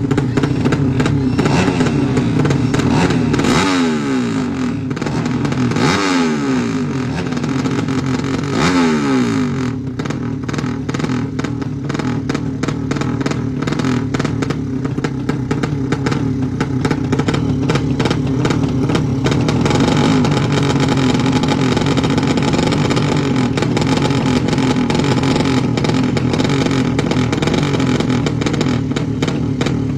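Tuned racing motorcycle engines held at high revs, a dense, rattling exhaust note. Three falling sweeps in pitch come in the first ten seconds, and the engines then hold a steady high pitch.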